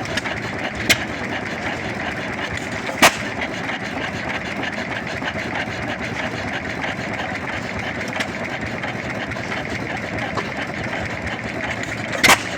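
Old single-cylinder ('one lung') stationary engines running in a steady mechanical din, with a few sharp, irregularly spaced exhaust bangs; the loudest comes near the end.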